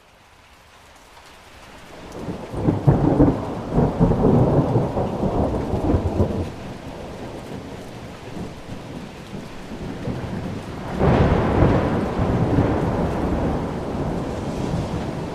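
Steady rain fading up over the first couple of seconds, with two long rolls of thunder: one starting about two seconds in and lasting some four seconds, the other about eleven seconds in.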